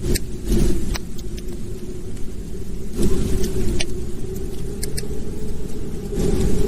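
Wood fire burning in a fireplace: a steady low rumble of the flames with sharp crackles and pops scattered through it.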